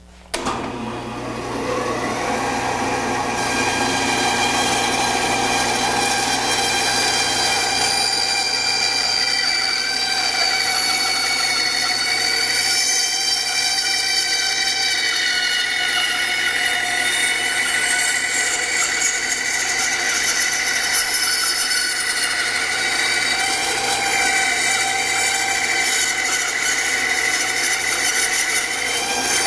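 Band saw switched on a fraction of a second in, its motor and blade coming up to speed over a couple of seconds, then running steadily with a whine of several pitches. It is making the last of sixteen cuts through a cabriole leg blank held together with painter's tape.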